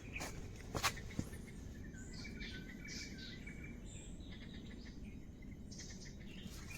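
Faint tropical forest ambience: birds chirping here and there over a low steady hiss, with a couple of faint clicks in the first second or so.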